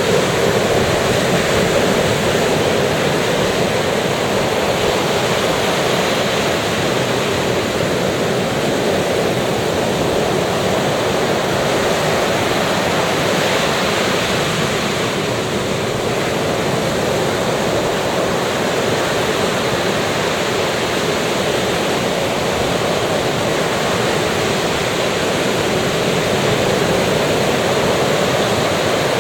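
Ocean surf washing onto the shore: a steady, continuous rush of waves in which no single break stands out.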